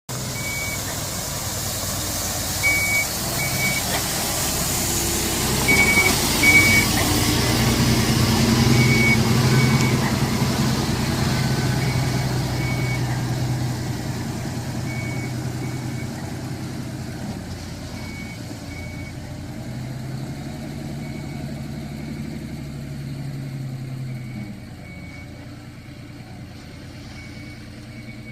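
Isuzu Giga dump truck reversing: its backup alarm gives short high beeps in pairs every few seconds over the diesel engine running, which grows louder toward the middle and then eases off near the end.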